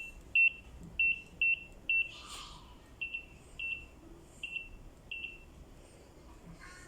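Handheld barcode scanner beeping to confirm reads: about nine short, high-pitched beeps at uneven intervals, stopping a little after five seconds in.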